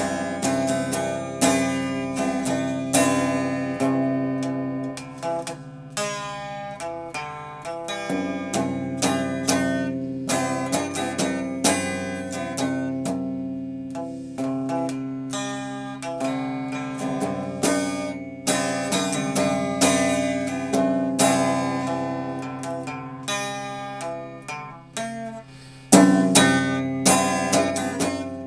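Instrumental music on a plucked string instrument, single notes picked in quick succession over sustained low notes, growing louder near the end.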